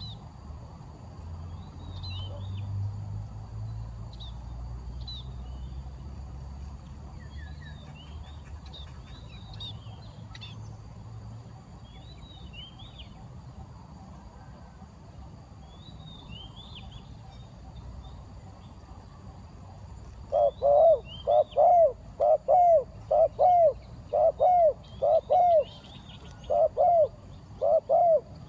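Small birds chirping high and thin throughout. About twenty seconds in, a spotted dove starts cooing loudly: a quick series of short, evenly spaced coos, a little under one a second, lasting about eight seconds.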